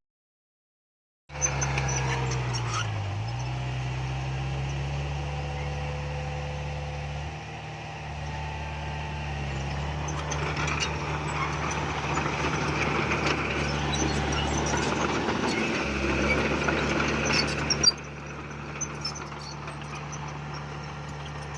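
Heavy earthmoving machine's diesel engine running steadily, dipping briefly in pitch twice. Harsher noise builds over it in the middle, and it all drops in level near the end. The sound begins after about a second of silence.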